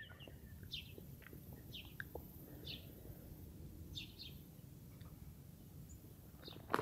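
Small birds chirping faintly: short high calls every second or so, over a low steady rumble.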